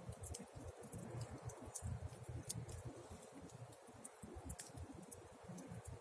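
Campfire burning, with irregular sharp crackles and pops over a low fluttering rumble.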